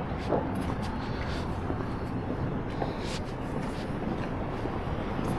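Heavy diesel truck engine running steadily with a low rumble, with a few faint clinks.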